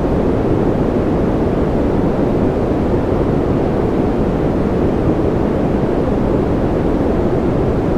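Steady, unchanging noise, weighted toward the low end with little treble, like deep brown noise. It is a continuous hiss with no patter or separate drops.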